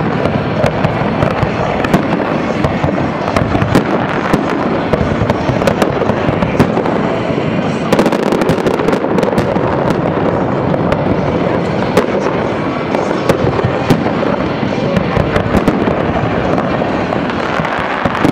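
Aerial fireworks shells bursting in a steady barrage: sharp bangs over continuous crackling, with no pause.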